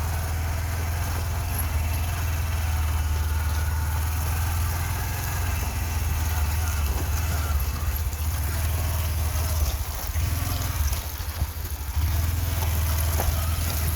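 An engine idling with a steady low rumble that weakens and turns uneven for a couple of seconds about ten seconds in.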